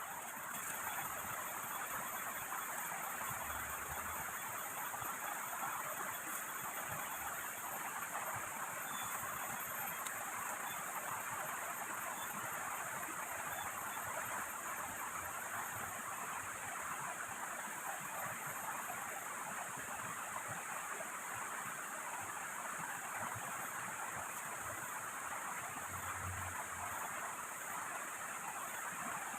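Steady rushing noise of heavy rain and flowing river water, even throughout with no distinct events.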